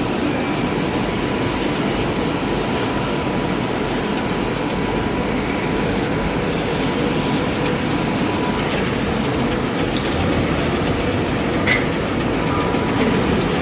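Paint-stripping carbonization furnace running: a steady, unbroken mechanical rumble and hiss with a faint constant tone, and a single short click near the end.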